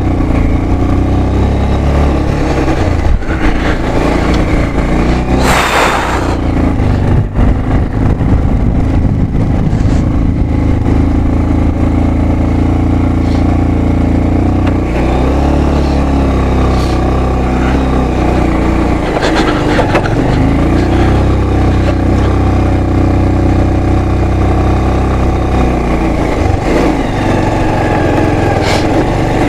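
Motorcycle engine running on a ride, its pitch rising and falling as the throttle changes, with a brief rushing hiss about six seconds in.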